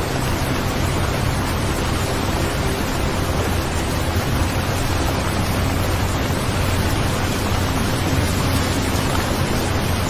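Steady recorded rain, an even hiss with a low rumble underneath.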